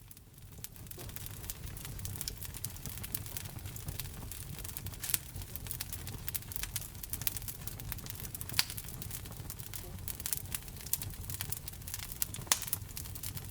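Wood fire burning in a fireplace: many sharp crackles and pops, a few louder snaps, over a steady low rumble of the flames. The sound fades in over the first second or two.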